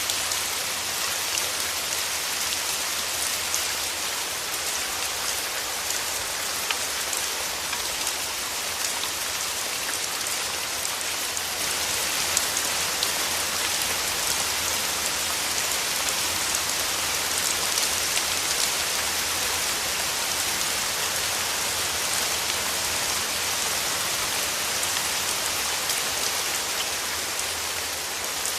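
Steady rain falling, with many individual drop hits close by; it grows slightly heavier about twelve seconds in.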